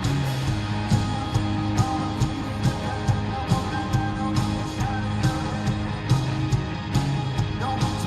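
Live rock band playing a song, with a steady drum beat under bass and electric guitars.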